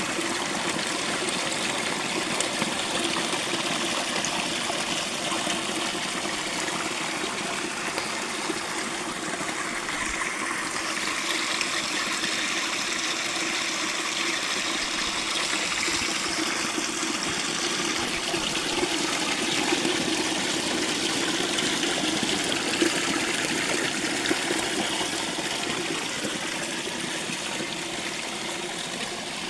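Water of a stream flowing, a steady rushing and trickling.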